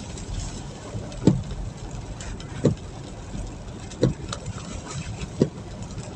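Steady rumble of a car driving, heard from inside, with a short low thump repeating about every second and a half.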